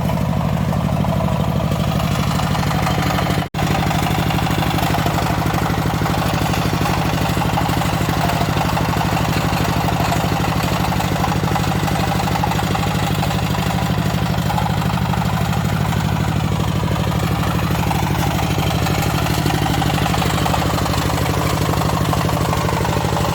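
Walking tractor engine running steadily on a test run after new clutch plates have been fitted and the clutch set, with a very brief break in the sound a few seconds in.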